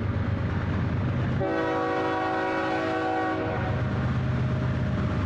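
Freight locomotive's horn sounding one blast of about two seconds, starting about a second and a half in, over the steady rumble of the train rolling past.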